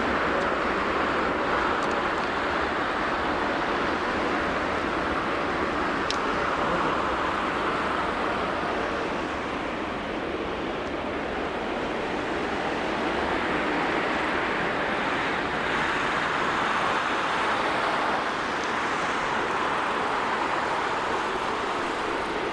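Steady rushing roar of distant jet aircraft engines, swelling and easing slightly.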